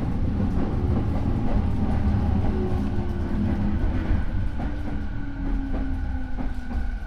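Running noise inside a Rinkai Line 70-000 series electric train, a refurbished car with a Mitsubishi IGBT inverter and MT73 traction motors. The motor and inverter tones fall steadily in pitch as the train brakes, over a heavy rumble and occasional wheel clicks at rail joints.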